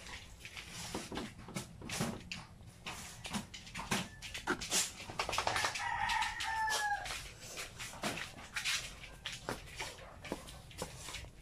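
A single drawn-out bird call, falling slightly in pitch, about six seconds in, over scattered clicks and knocks of handling and movement.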